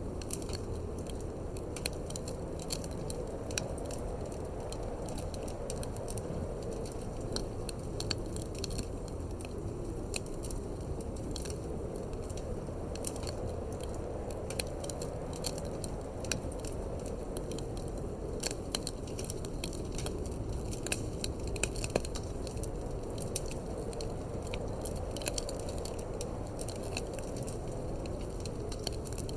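Wood fire in a fireplace crackling, with frequent small sharp pops at irregular moments over a steady low rush of wind.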